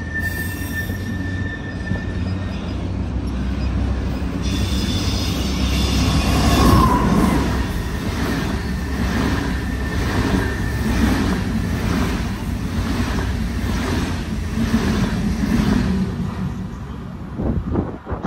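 SBB double-deck passenger train passing close at speed. It opens with a steady high wheel squeal, swells into a loud rush, then the wheels beat in a regular rhythm, about once a second, as each coach goes by, fading near the end with a few sharp knocks.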